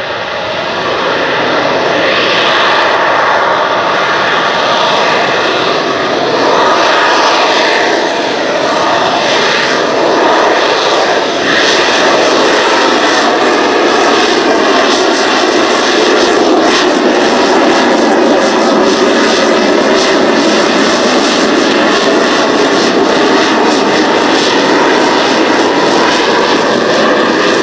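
McDonnell Douglas AV-8B Harrier II's Rolls-Royce Pegasus turbofan running loud and steady, with its pitch sliding up and down slowly in places.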